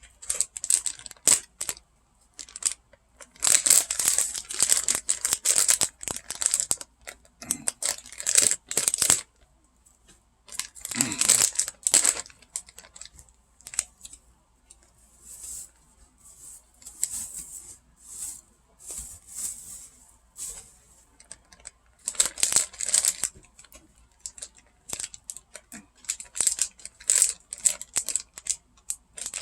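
Plastic bag of shredded cheese crinkling and rustling in irregular bursts as it is opened and handled.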